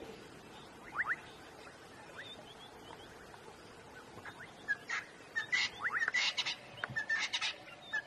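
Birds calling: a couple of quick rising chirps about a second in, then, from about five seconds, a loud run of rapid, repeated calls.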